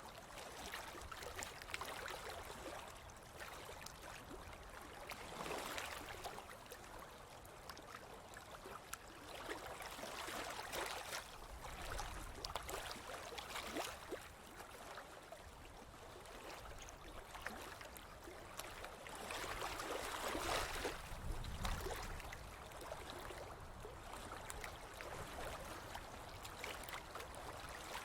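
Ocean waves washing onto a beach: a steady hiss of fizzing surf that swells louder as a wave breaks every several seconds.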